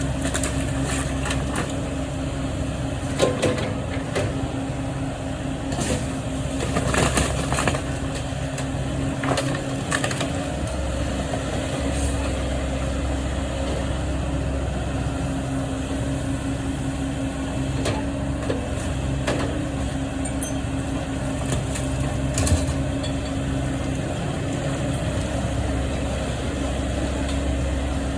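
Heavy machine engine running steadily during a house demolition, with intermittent cracking and crunching of wood as the walls are broken down, loudest about three seconds in, between six and seven and a half seconds, and again near twenty-two seconds.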